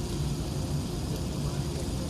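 Steady Airbus A380 cabin noise on the ground: a low rumble with a steady hum and an even, airy hiss.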